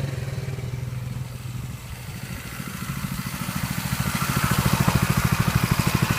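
Small off-road vehicle engine running with an even, rapid pulsing beat. It grows louder from about three seconds in.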